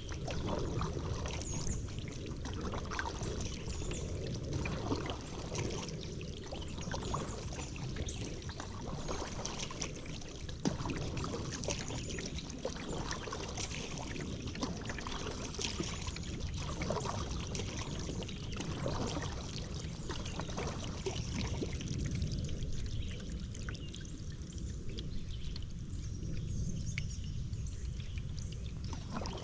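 Paddle strokes through river water, with water pouring and trickling off the blade between strokes, over a steady low rumble.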